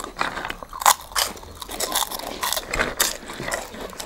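Three people biting and chewing ngaprum makak, a tube-shaped snack, straight from their plates: an irregular, overlapping run of sharp crunches.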